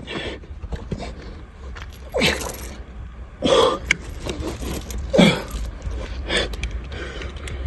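Metal jangling and clicking of a revolver and loose cartridges being fumbled during a botched reload, with three short vocal exclamations about two, three and a half, and five seconds in.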